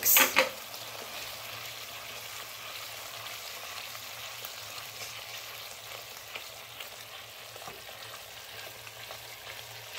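Tomato and spice masala frying in oil in a pan, a steady sizzle, while it is stirred with a wooden spatula. It is the bhuna stage, the masala being fried down.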